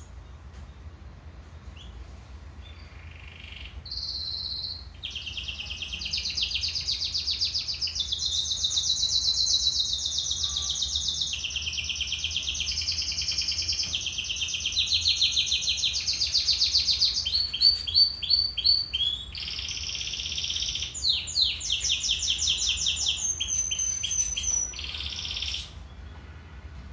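Domestic canary singing a long song of fast rolling trills and repeated chirping phrases, one tour after another. It starts about four seconds in and stops abruptly near the end.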